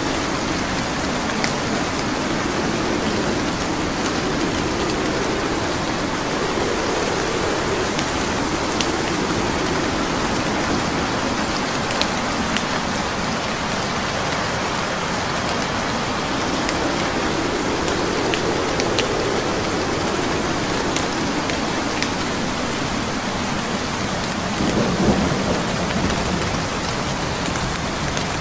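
Steady rain with a crackling wood fire: scattered sharp pops and snaps over the even hiss of rain. Slow low rumbles swell and fade under it, the strongest near the end.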